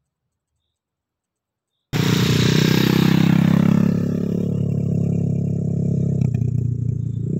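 A loud engine running at a steady pitch, starting suddenly about two seconds in, with a hissing edge that fades over the next two seconds.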